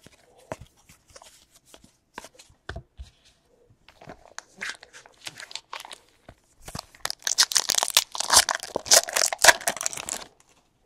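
A trading-card pack's wrapper being torn open and crinkled, loudest and densest in the last few seconds. Light clicks and rustles of handled cards come before it.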